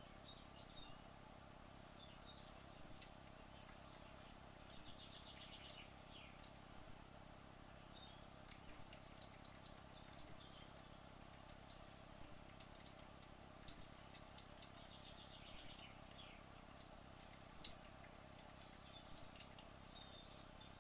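Near silence: a faint steady hum with scattered faint ticks and a few short, high chirping trills.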